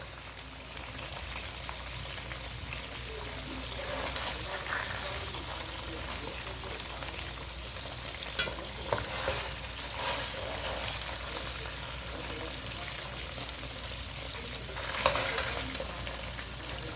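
Pork ribs frying in a pan on the stove, sizzling steadily. A few short clatters come through about halfway, and a louder one near the end.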